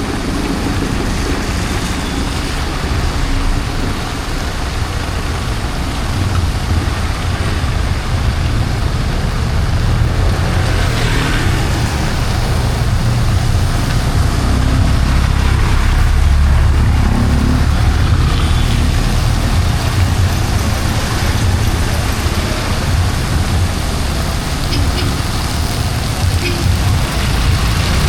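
Heavy rain falling on a city street while road traffic passes, a steady hiss over a low engine rumble that swells a little in the middle.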